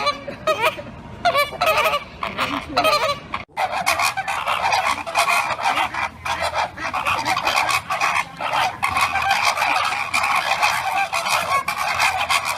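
Birds calling loudly: separate calls at first, then, after a cut about three and a half seconds in, a dense unbroken clamour of many overlapping calls.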